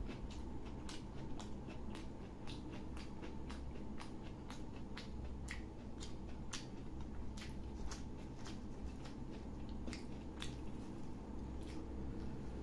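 Close-miked eating: chewing mouthfuls of paratha with potato curry, heard as many short, irregular mouth clicks over a steady low hum.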